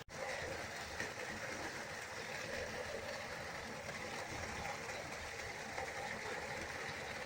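Waterfall rushing with a steady, even roar of falling water. The sound cuts out for a split second right at the start.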